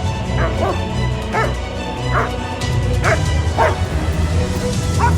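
German Shepherd barking repeatedly in bite-work training, about seven sharp barks, over background music with a steady low bass.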